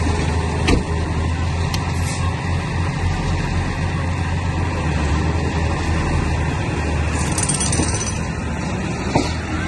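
Heavy diesel construction machinery running steadily under work, with two brief knocks: one under a second in and one near the end.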